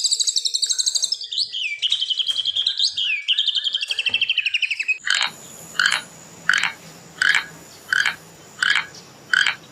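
Birdsong: rapid, high trilling chirps. About five seconds in it cuts abruptly to a single short call repeated evenly, roughly every 0.7 seconds, over faint background noise.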